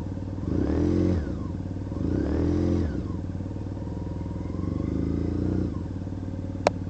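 Honda CBR600 F4i inline-four engine revved in three short blips that each fall back to a rough idle, with a sharp click near the end. It runs like a two-stroke and seems to be dying out, which the owner takes to mean that only a couple of cylinders are firing.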